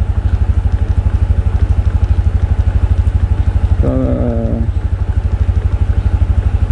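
Motorbike engine idling steadily while the bike stands still, a fast even low putter.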